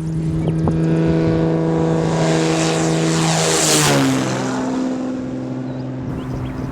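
Cessna 210M Centurion's six-cylinder piston engine and propeller flying past at full power; the pitch falls sharply about four seconds in as the aircraft passes, loudest just before it.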